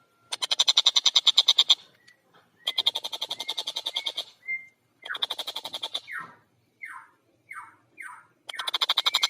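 Stork-billed kingfisher (tengkek buto) calling loudly: three bursts of rapid cackling notes, about ten a second, then four short calls that each fall in pitch, and a fourth cackling burst starting near the end.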